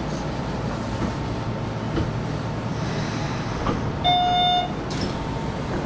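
Sanyo Electric Railway train running through the station, a steady low rumble with a few clicks. About four seconds in comes a short, loud, high-pitched tone lasting under a second.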